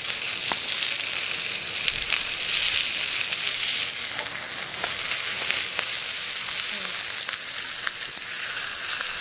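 Pork spare ribs sizzling over a campfire, a steady hiss with scattered sharp pops and crackles from the fat.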